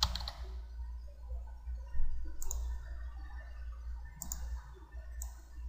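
Four sharp computer mouse clicks, a second or two apart, over a low steady electrical hum.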